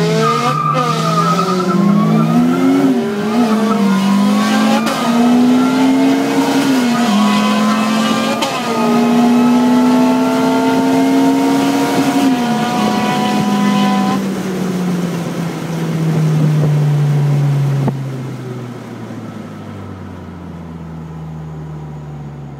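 A car engine accelerating hard through the gears, heard from inside the cabin. The note climbs and drops back at upshifts about 3, 5 and 8.5 seconds in, holds high, then falls steadily from about 12 seconds as the driver lifts off and slows down, growing quieter near the end.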